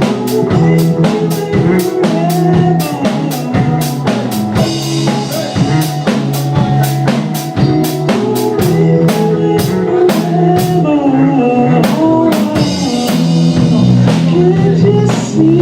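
Live band playing: a drum kit beats a steady, fast rhythm under sustained, loud instrument notes.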